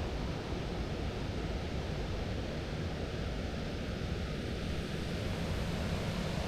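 Steady rushing outdoor noise, heaviest in the low end, with no distinct events.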